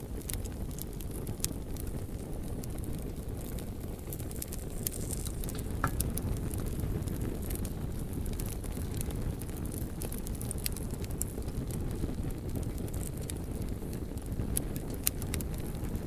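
Wood fire crackling: scattered sharp pops and snaps over a steady low rumble, with a short high squeak about six seconds in.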